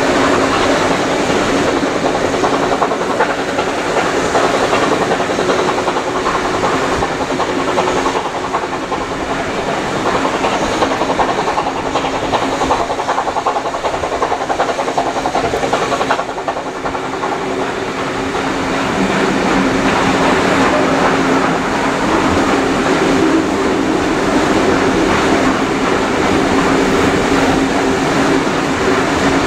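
Steam-hauled passenger carriages running along the line, heard from an open carriage window: steady rumble and clatter of the wheels on the rails. It dips a little in loudness about halfway, then builds again.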